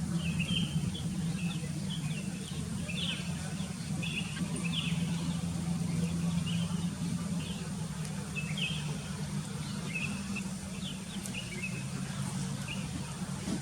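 Sooty-headed bulbuls calling in many short, quick chirps, over a steady low hum.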